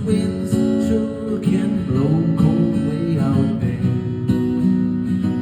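Acoustic guitar strummed, playing chords in an instrumental passage of a folk song without singing.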